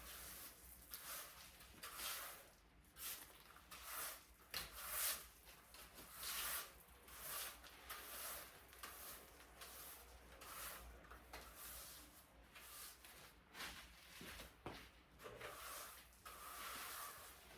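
Irregular rustling and scraping, in short strokes one or two a second.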